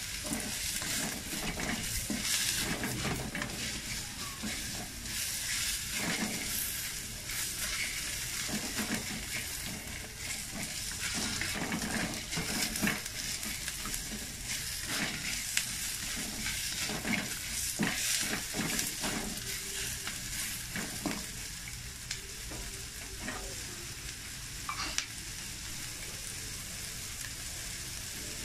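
Chopped onions and peppercorns sizzling in a stainless steel wok while a spatula stirs them, scraping and knocking against the pan. The stirring stops about three quarters of the way through, leaving just the steady sizzle.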